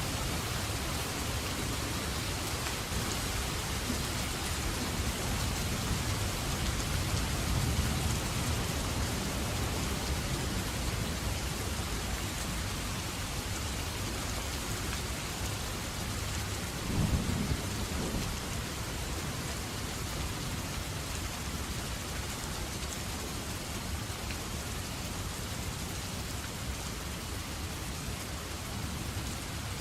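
Steady heavy rain falling, with low thunder rumbling; a short louder rumble comes a little past the middle.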